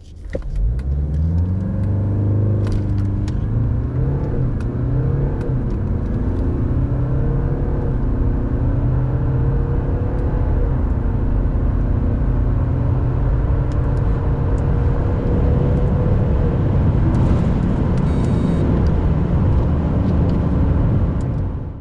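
2023 BMW 520d's 2.0-litre four-cylinder turbodiesel at full throttle from a standstill through its 8-speed automatic: the engine note climbs steadily in pitch and drops back at each upshift, several times over.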